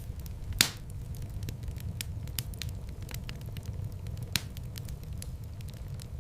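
Wood fire crackling in a fireplace over a steady low rumble of flames, with scattered small snaps and a sharp loud pop about half a second in and another near four and a half seconds in.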